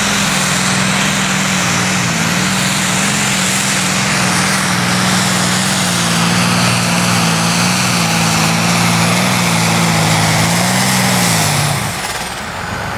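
Smoking Devil pulling tractor's twin-turbocharged V12 diesel engine running hard under load through a pull, a loud steady drone that wavers slightly in pitch. Near the end the pitch falls and the sound drops away as the run ends short, at only about 60 metres.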